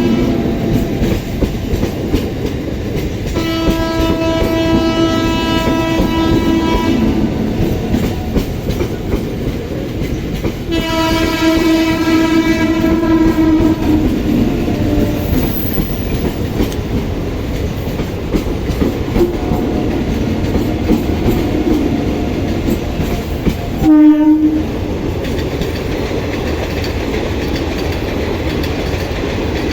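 ICF MEDHA electric multiple unit train running past, its wheels clattering over the rails. The train horn sounds two long blasts of about three and a half seconds each, a few seconds in and about eleven seconds in, and there is a short, very loud honk about 24 seconds in.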